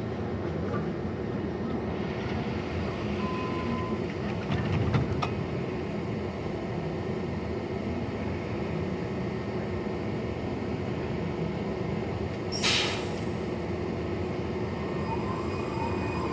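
Washington Metro train at a station platform: a steady low rumble, with a short sharp hiss of air about twelve and a half seconds in. Near the end a high, thin wheel squeal begins.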